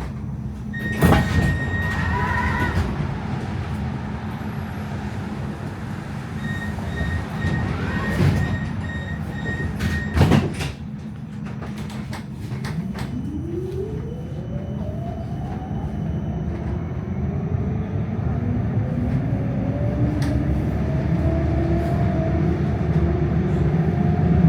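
Electric tram at a stop and pulling away: a door warning tone beeps for a few seconds, the doors knock shut about ten seconds in, then the traction motors whine upward in pitch as the tram speeds up, over a steady low rumble.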